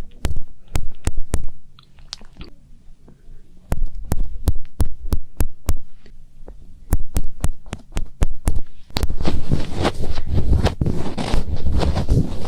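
ASMR finger ear cleaning: fingertips tapping, pressing and rubbing on a microphone's ear, close up, giving sharp clicks and muffled thumps. From about nine seconds in, the fingers rub and scratch quickly and without a break.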